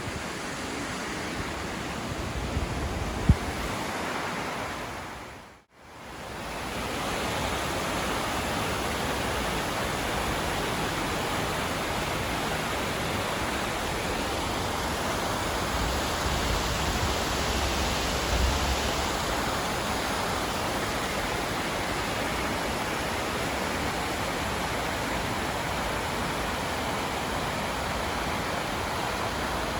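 Steady rushing noise spread evenly from low to high pitch, dropping out to silence for a moment about six seconds in before it resumes.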